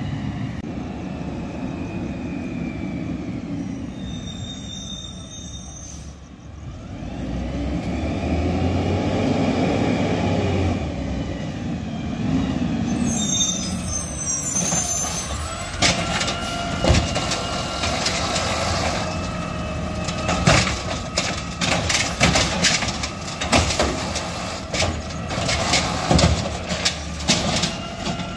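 Garbage truck engine running, revving up and back down about a third of the way in. From about halfway on comes a rapid run of metallic clanks and bangs over the running engine.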